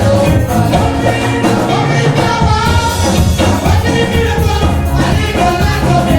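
Live gospel song sung by a vocal group over instrumental backing.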